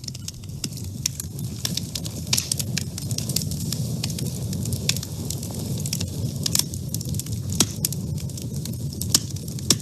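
Wood fire burning in a woodstove, crackling steadily with frequent sharp pops over a low rumble of the flames.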